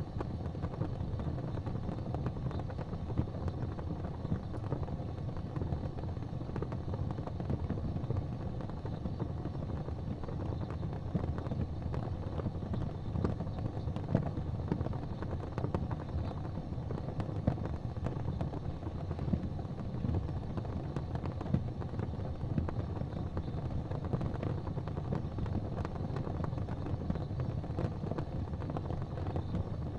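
Wood fire burning in a fireplace: a steady low rumble with scattered crackles and a few louder pops.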